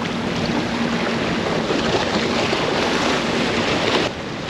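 Choppy waves washing against a seawall, with wind buffeting the microphone; a faint steady low hum lies underneath. The noise drops suddenly near the end.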